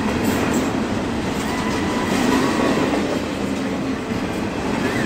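CSX double-stack intermodal freight train rolling past close by: a steady, loud rumble of steel wheels on the rails as the container cars go by.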